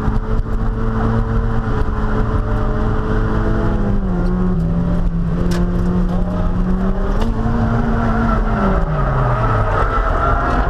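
Stock Mazda Miata's four-cylinder engine held at high revs while drifting: the pitch dips about four seconds in, climbs again, then drops off steeply near the end before revving back up.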